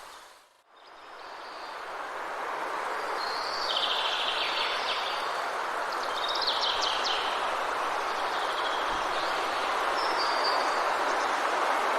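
Forest ambience: small songbirds chirping and trilling at intervals over a steady rushing background wash. Within the first second the whole sound fades almost to nothing and swells back in, like a loop joint in the recording.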